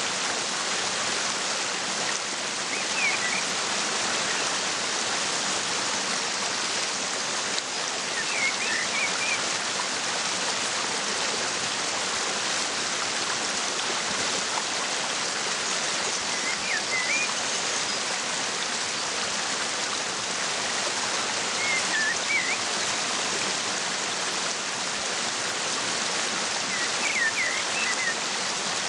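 Steady rush of falling water from a waterfall, with short bursts of bird chirping standing out five times, a few seconds apart.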